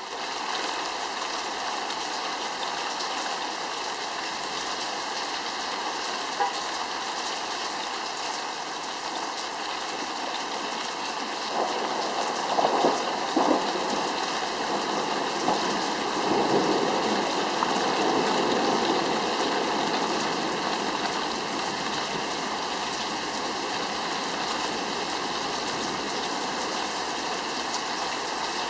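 Steady rain falling, with a few louder swells of the rain noise near the middle.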